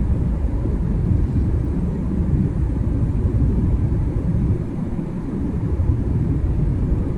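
Steady low rumble of a jet airliner heard from inside the cabin during its descent to land: engine and airflow noise.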